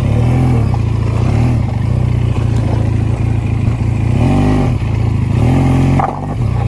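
Motorcycle engine running with a steady low hum, revved up and back down in several short blips while the bike is being ridden up a rough off-road stretch.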